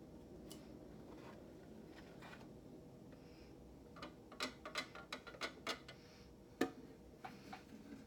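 Light clicks and taps of an object being handled, a quick cluster of them about four seconds in, then one sharper click.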